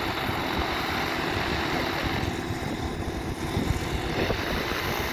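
A light propeller aircraft's engine running steadily, with wind buffeting the microphone.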